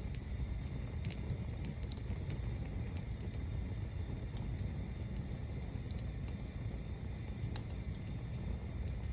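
Tower-stacked bonfire burning: a steady low rush of flame with scattered sharp crackles and pops from the wood.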